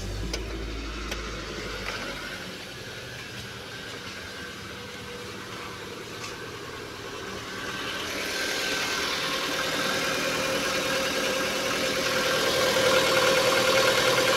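Proton Persona's 1.6-litre VVT four-cylinder engine idling just after being started, heard first from the cabin and then louder at the open engine bay from about eight seconds in. It carries a rough noise that the owner says is loud on cold mornings and fades once the engine is warm, which the mechanic means to trace by opening the timing chain and cam.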